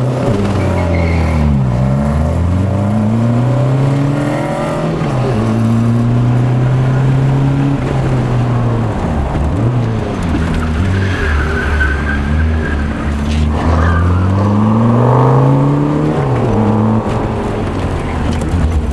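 Car engine revving hard through an autocross run, its note climbing and dropping several times as the driver accelerates and lifts between cones, with tyres squealing briefly a little past the middle.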